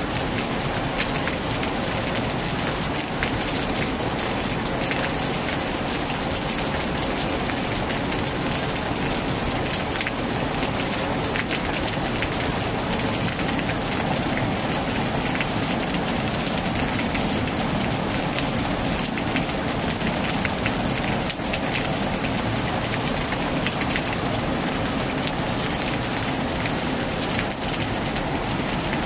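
Heavy rain falling steadily, a dense, even hiss full of fine drop ticks, drumming on a tin roof.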